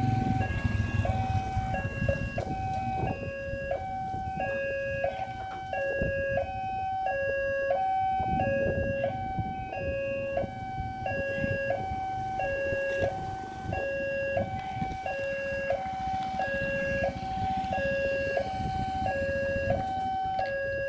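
Railway level-crossing warning alarm: an electronic two-tone signal alternating steadily between a higher and a lower tone about once a second, over a low rumble.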